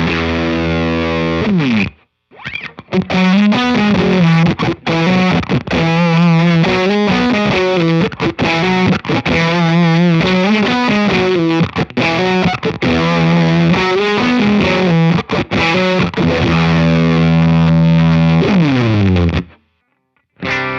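Electric guitar riff through a JHS Kilt overdrive pedal set to fuzz, with both gain toggles on, into a Walrus Audio ACS1 amp simulator, giving a heavily distorted tone. Held notes waver with wide vibrato, there is a short stop about two seconds in, and a last note slides down in pitch before cutting off near the end.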